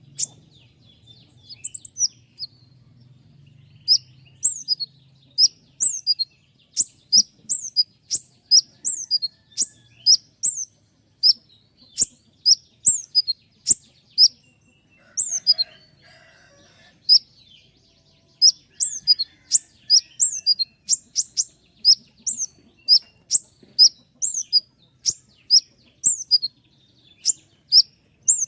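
Konin (kolibri ninja), a small sunbird, singing long rapid runs of sharp, high chirps that each slur downward, broken by a few short pauses.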